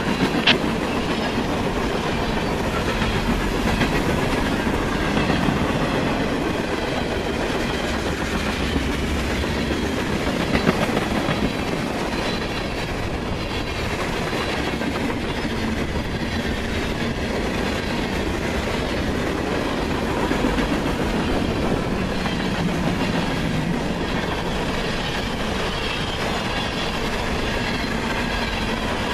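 Freight cars of a CSX manifest train, tank cars and covered hoppers, rolling past close by: a steady rumble and rattle of steel wheels on rail, with a faint high ringing from the wheels and one sharp click about half a second in.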